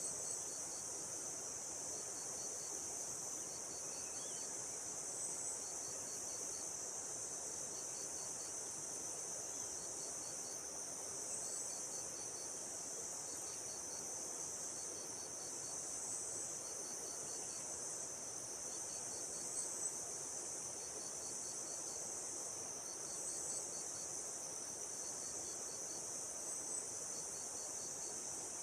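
Steady high-pitched insect drone, with a cricket chirping in short pulsed trills that repeat about once a second.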